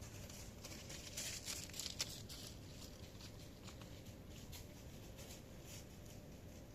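Faint, irregular patter of raindrops, thickest in the first few seconds, with one sharper tap about two seconds in.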